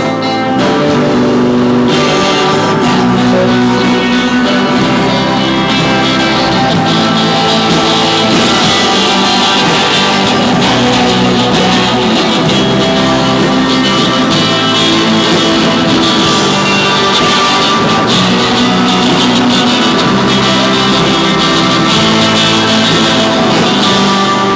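Live rock band playing a song, guitar to the fore, loud and steady throughout.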